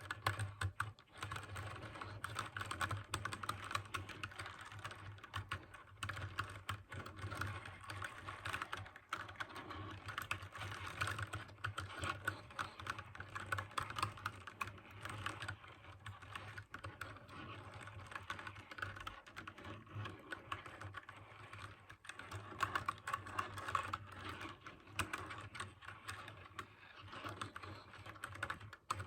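Fast, continuous typing on a mechanical keyboard with blue (clicky) switches, a dense stream of sharp key clicks.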